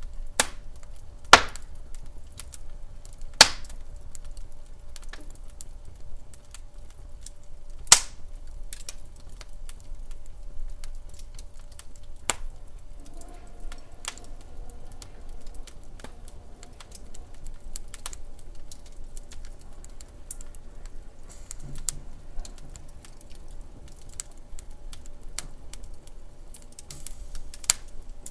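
Wood fire crackling and popping in a fireplace: a steady run of small crackles with a few sharp, louder pops, over a low rumble of the flames.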